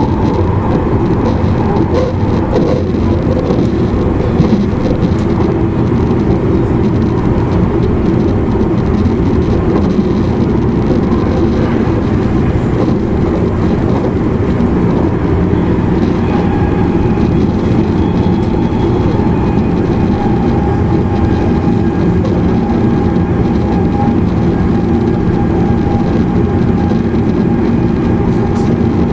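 E259 series Narita Express motor car running at speed, heard from inside the car: a steady rumble of wheels on rail and running gear. A steady tone joins in about halfway through.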